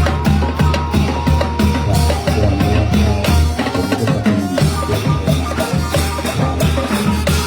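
Thai trae wong brass band playing, with drums keeping a steady beat under the melody.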